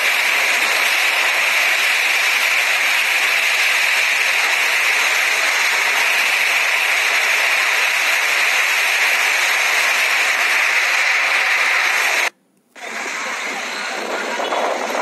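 Heavy rainstorm with strong wind: a loud, steady hiss of pouring rain. A little past twelve seconds in it cuts out for a moment and comes back quieter, with a few faint ticks.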